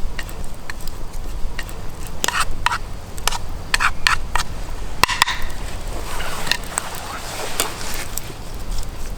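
Irregular crackling and clicks from an omelette cooking in a pan over a wood fire, with the crackles coming thicker from about two seconds in.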